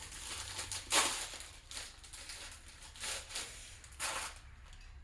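Piston-ring packaging crinkling as it is handled, in several short rustles, the loudest about a second in.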